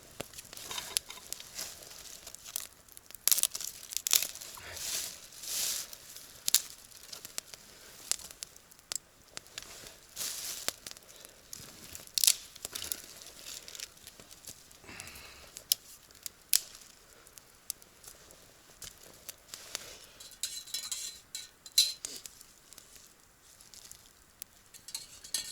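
Campfire fed with dry wood: irregular snaps and crackles, with short rustling bursts of dry twigs and leaves being handled.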